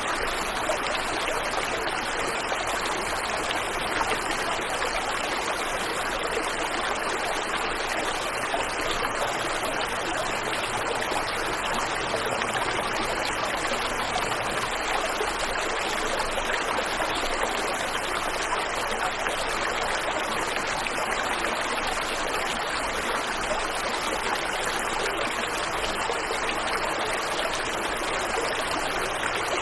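Waterfall and river water rushing steadily, an even, unbroken hiss of flowing water.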